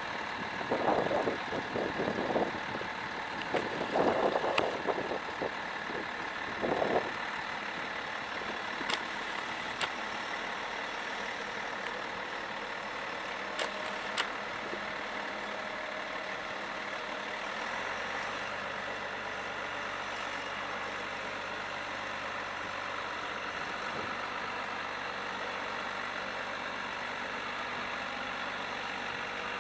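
Diesel vehicle engines running steadily at idle, with a few louder irregular bursts in the first seven seconds, then an even drone.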